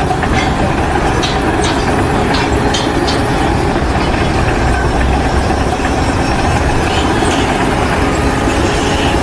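Loud, steady heavy-machinery noise with a few short clanks in the first few seconds.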